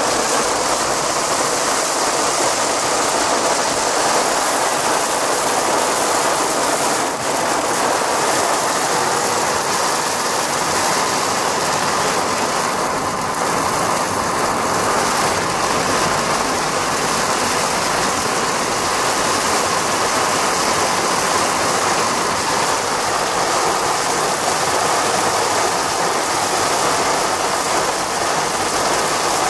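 Heavy rain drumming on the roof and windscreen of a moving car, heard inside the cabin: a steady, dense noise that does not let up.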